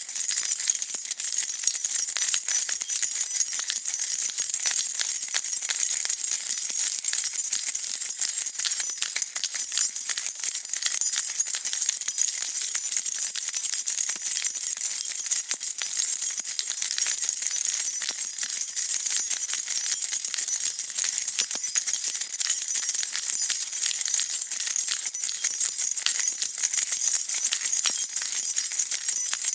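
A bunch of metal keys jingling and rattling continuously as they are shaken, a dense, steady stream of small bright clinks.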